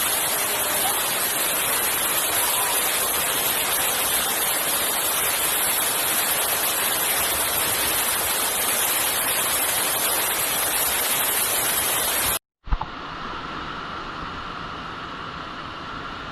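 Loud, steady rushing water, even and unbroken. About twelve seconds in it cuts off abruptly, and a quieter steady hiss with faint, steady high tones follows.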